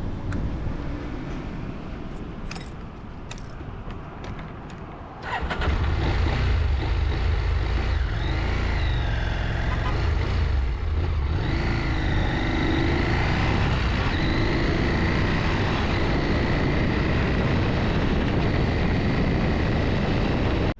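Motorcycle engine, which keeps cutting out because of a failed kickstand-switch bypass, starting up about five seconds in after a few clicks, then running steadily with a few rises and falls in pitch.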